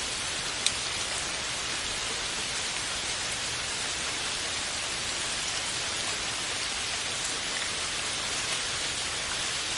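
Steady rain falling in an even hiss, with a single sharp tick standing out just under a second in.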